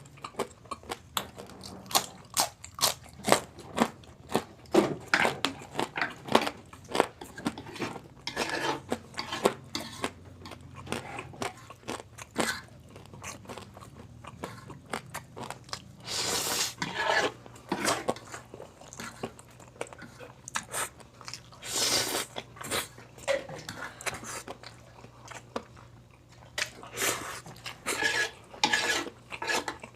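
Close-up chewing and crunching of crispy pata, the deep-fried pork knuckle's crackling skin, with many sharp crunches one after another. Two longer, noisier sounds come near the middle.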